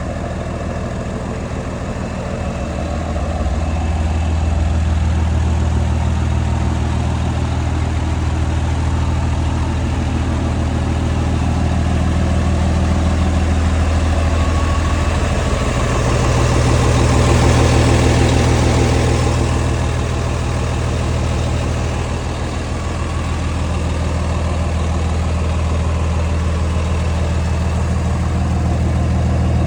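Diesel engine of a Ford Cargo 1932 truck tractor idling steadily with a low, even drone. About halfway through a broader rush of noise swells up and fades again.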